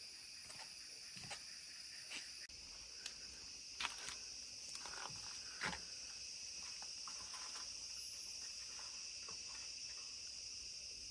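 Steady, high shrill chorus of insects, faint, with a few short clicks and knocks scattered through the first half.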